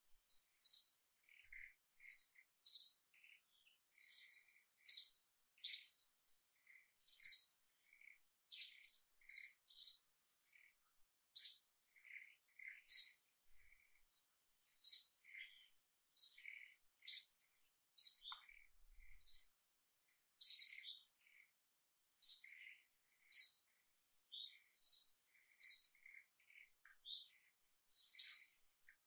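A bird chirping over and over, short high chirps about once a second, with fainter lower chirps in between.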